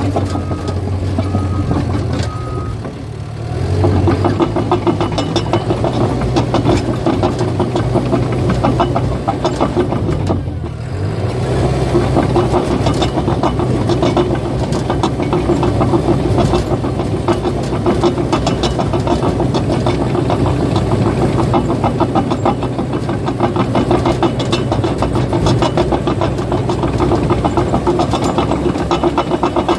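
Caterpillar bulldozer's diesel engine running under load, with a steady clatter of the steel tracks. A reversing alarm beeps for the first few seconds, and the machine's sound dips briefly about three seconds in and again around ten seconds.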